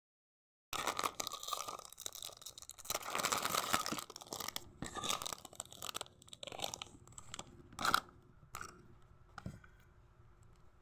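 A person chewing crunchy food. The sound starts as dense crunching, then breaks into separate chews that grow sparser and stop shortly before the end.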